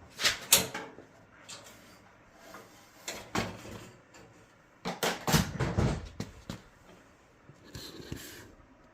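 Scattered knocks and clatter of metal parts being handled, in several bursts with the busiest run about halfway through: a Samsung dryer's drum roller mount being pivoted back into place after a new roller is fitted.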